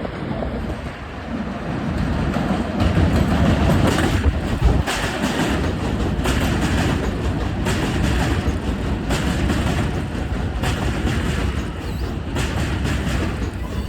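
New York City subway J train running into the station: a loud rumble of the wheels on the rails that swells over the first few seconds as it arrives, with repeated clacks from the wheels crossing rail joints, roughly one a second.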